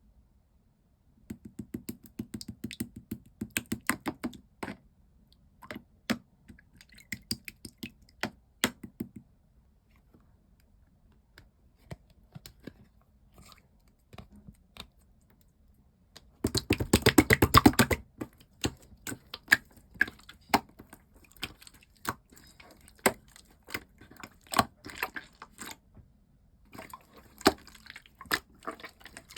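Slime being squished and poked by hand, giving off sticky clicks and little wet pops, with a quick, loud run of squishes about two-thirds of the way through.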